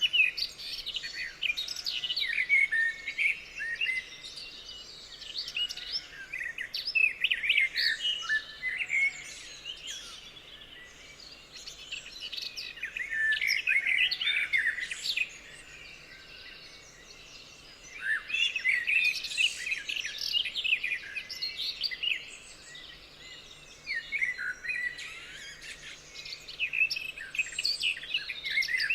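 Several songbirds singing and chirping together, in dense bursts of quick high chirps and trills with quieter spells between.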